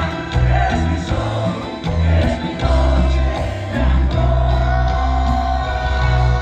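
Live grupero band music with a heavy, stepping bass line and a long held melody note through the middle.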